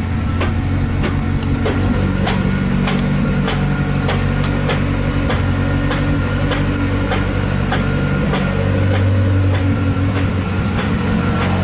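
Lada Zhiguli engine running in gear with the raised rear wheels spinning, and a sharp metallic knock from the left wheel about twice a second. The knock comes from a brake pad whose friction lining has broken away from its backing plate; the owner first suspected a broken half-shaft. The engine note grows a little louder and deeper about eight seconds in.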